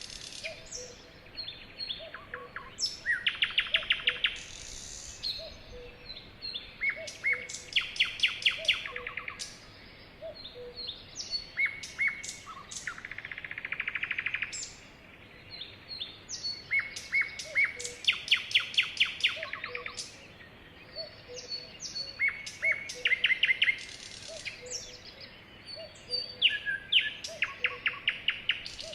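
Sparrows singing: song phrases repeat about every four to five seconds, each a few short chirps running into a fast, rattling trill.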